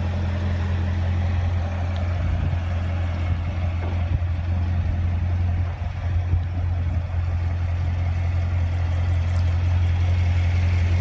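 2016 Chevrolet Corvette Stingray's 6.2-litre V8 idling with a steady low drone.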